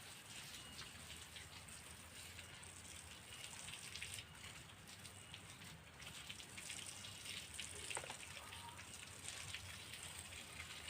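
Faint water dripping and splashing, many small drops pattering steadily, as from watering seedlings in garden soil.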